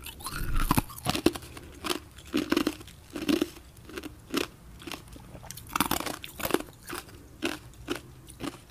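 Close-up mouth sounds of a person chewing a mouthful of food, coming irregularly about once a second.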